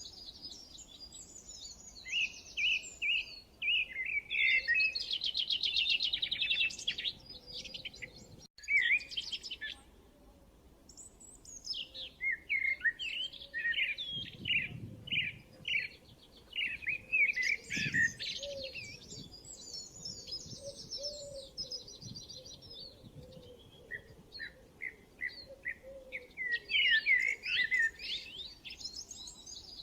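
Several songbirds chirping and singing, with rapid trills and quick runs of short repeated chirps. The sound breaks off abruptly once, about a third of the way in, then picks up again.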